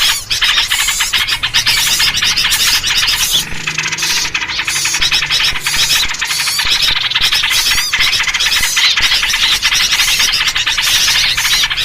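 A dense, unbroken din of many small birds chattering and squeaking at once, with yellow-vented bulbul (trucukan) calls in the mix: a noisy bird-lure recording meant to draw in small birds.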